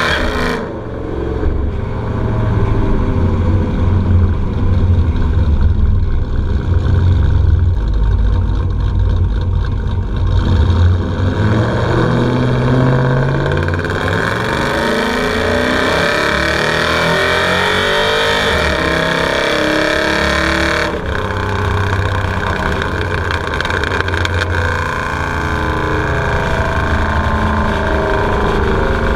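Exhaust of a cammed Chevrolet 5.3-litre V8 running with no catalytic converters through 2.5-inch true dual pipes and a Magnaflow muffler. Engine speed rises and falls, with a heavy low rumble, and the sound changes abruptly near the start and again about two-thirds of the way through.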